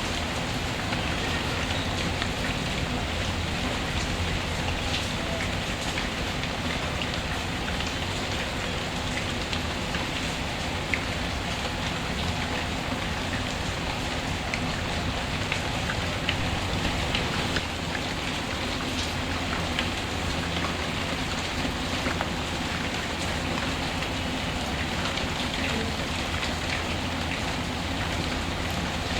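Steady rain falling, with a few sharper pops and crackles of a wood fire scattered through it, the clearest about a third of the way in and a little past the middle.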